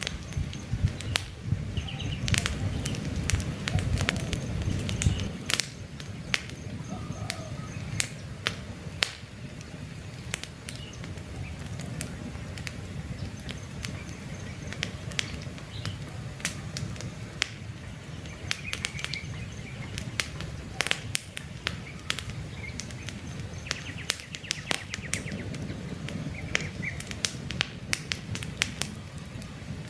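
Wood fire crackling with frequent sharp pops over a low rumble of burning, while birds chirp faintly now and then.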